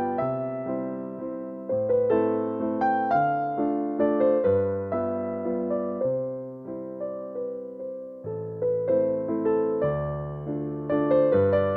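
Background music: electric piano playing a gentle sequence of chords and melody notes, each note struck and fading.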